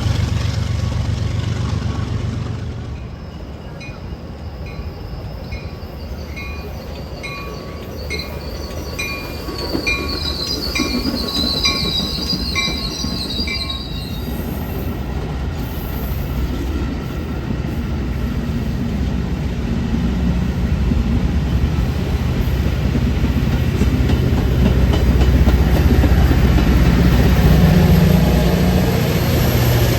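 A train on the line: a bell rings about once a second with a high squeal of wheels on the rails, then the heavy rumble of the train grows steadily louder toward the end.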